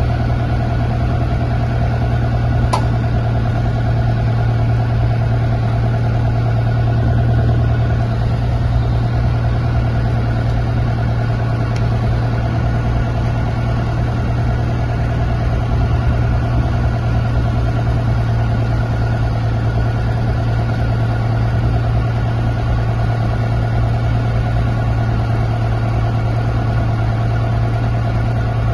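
An engine running steadily at idle, a constant low hum that does not change, with one faint click about three seconds in.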